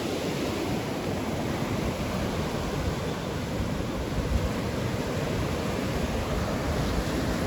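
Ocean surf washing onto the beach, with wind buffeting the microphone: a steady rush of noise that holds throughout.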